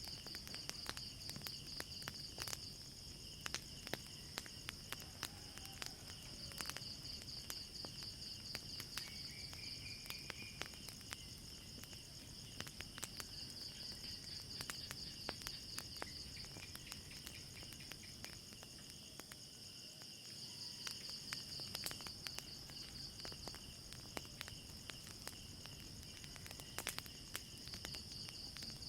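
Crickets trilling steadily at night, with a wood fire crackling underneath in scattered sharp pops.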